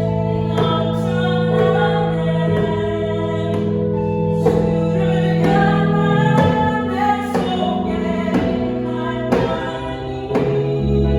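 Live gospel worship song: sustained keyboard chords with a woman singing, and a djembe struck about once a second.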